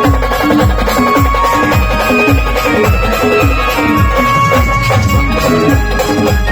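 Brass band playing a song: melodic lines over a steady low drum beat, about two beats a second.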